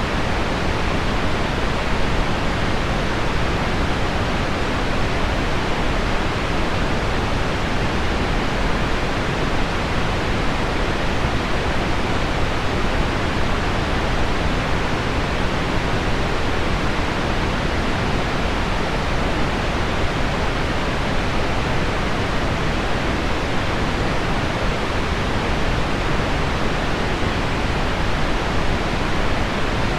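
Heavy rain on window glass blended with deep pink noise: a steady, even hiss with no breaks or changes.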